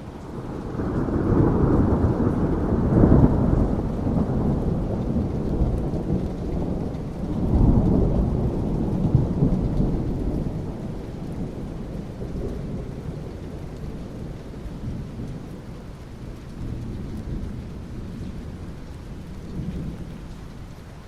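Rolling thunder over steady rain. The deep rumble swells up quickly, peaks twice, then slowly dies away while the rain hiss carries on.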